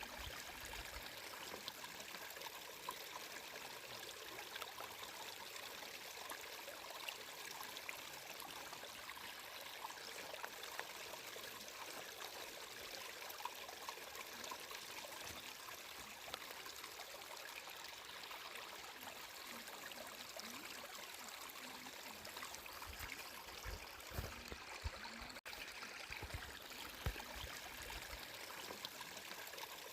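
Water flowing steadily, an even, bright rushing and trickling. A few soft low thuds come through near the end.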